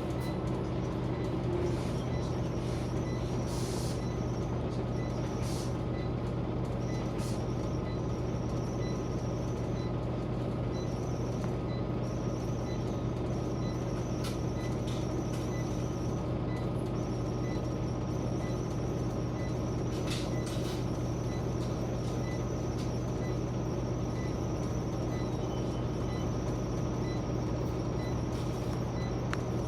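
Scania Omnicity single-deck bus heard from inside the saloon, its engine running at a steady, unchanging drone. A faint, regular ticking runs along with it.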